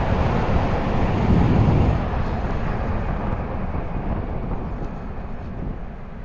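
Wind and road rush from riding an electric motorcycle, buffeting the microphone: a dense noise with no engine note, loud for the first two seconds and then gradually dying down.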